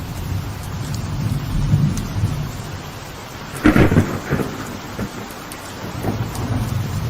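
Steady rain on a veranda under low, rolling thunder. The rumble eases off, then a sharper, louder clap of thunder breaks a little past halfway, with a smaller one just after.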